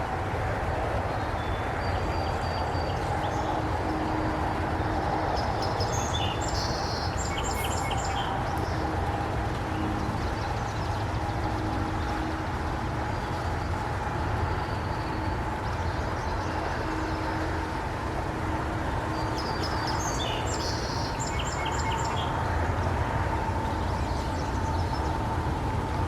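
Steady rush of a rain-swollen river. A songbird sings two short bursts of song, about a quarter of the way in and again near the end.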